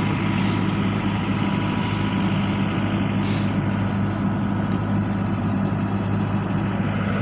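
Vehicle engine idling steadily, a low even drone with no revving.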